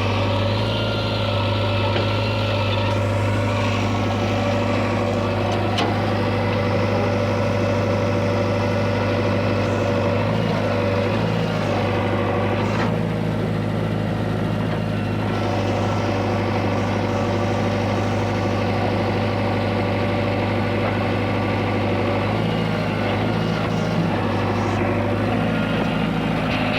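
Heavy diesel engine of earth-moving or farm machinery running steadily at constant speed, with a few faint knocks.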